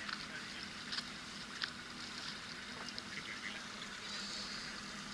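Steady low hum of the river boat's engine, with a running hiss of water along the hull and a few light ticks or splashes.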